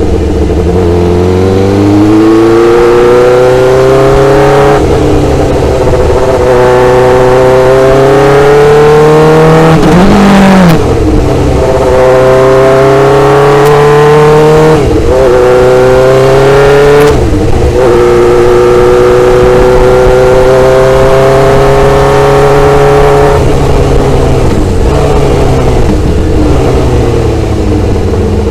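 Motorcycle engine pulling through the gears. Its pitch climbs slowly and drops briefly at each of four gear changes, then falls away near the end as the bike slows.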